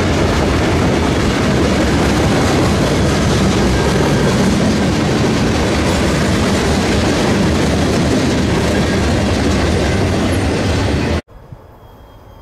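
Norfolk Southern freight cars rolling past, a loud steady rumble of steel wheels on the rails. The sound cuts off abruptly near the end to a much quieter scene.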